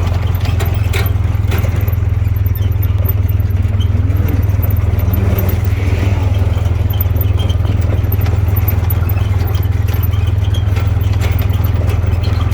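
Side-by-side UTV engine running steadily under way, a constant low drone, with light rattles and clicks from the vehicle.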